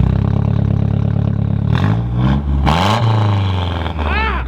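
Ford Focus engine under throttle: a steady low engine note, then revs rising about two seconds in, a short rush of noise and a drop in pitch as it shifts, and the revs falling off toward the end.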